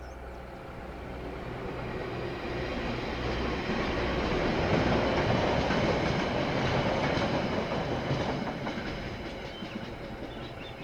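KiwiRail diesel-hauled train passing on the line, wheels running on the rails. It grows louder to a peak around the middle, then fades away.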